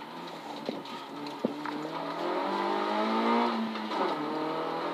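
Citroën Saxo rally car engine accelerating hard, heard from inside the cabin: the pitch rises steadily, drops at a gear change about four seconds in, then climbs again. A couple of small knocks sound early on.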